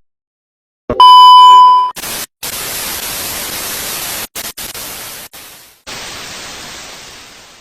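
A loud, steady electronic beep about a second long, then a hiss of white-noise static that cuts out briefly a few times and fades away near the end.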